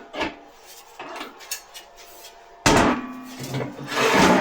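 Knocks and clanks of metal parts being handled, growing much louder and busier about two-thirds of the way in, with some metallic ringing.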